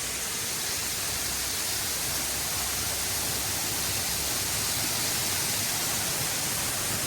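Waterfall rushing close by: a steady, even hiss of falling water.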